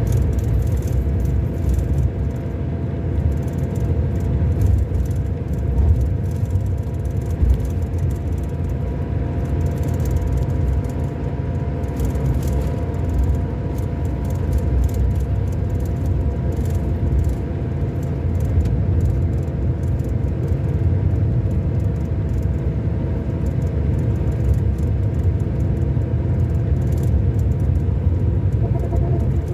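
Scania K-400 Euro 5 coach engine, a 13-litre inline six, running at a steady pace with a deep, even rumble and a couple of steady whining tones, and light rattles over it.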